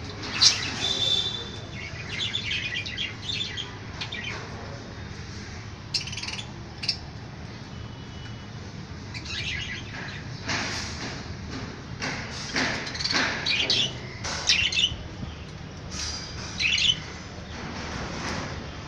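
Budgerigars chattering and chirping in short bursts of high warbles and tweets, over a steady low hum.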